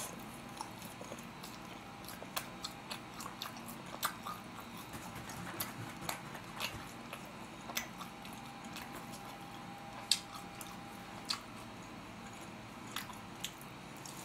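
Close-up chewing and biting of glutinous-rice-battered sweet and sour pork (chapssal tangsuyuk): irregular crisp crunches and small wet clicks, the sharpest about ten seconds in.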